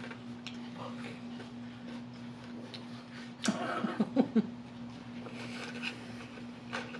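Soft, close-miked mouth sounds of chewing a Big Mac, with faint wet ticks, over a steady low hum. About three and a half seconds in comes a brief run of short, pitched vocal sounds lasting under a second.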